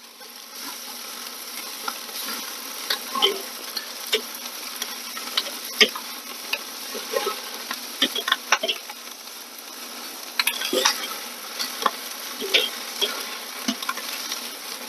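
Skin-on chicken thighs sizzling over direct charcoal heat, with rendered fat dripping onto the hot coals and popping and crackling many times.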